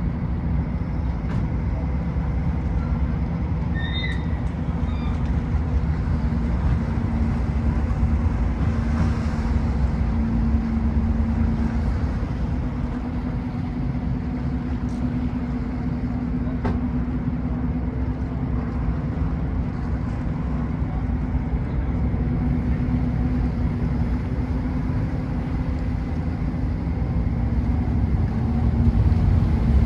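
Car ferry's engines running steadily while under way, a continuous low drone with a steady hum. A brief high chirp sounds about four seconds in, and the drone grows a little louder near the end.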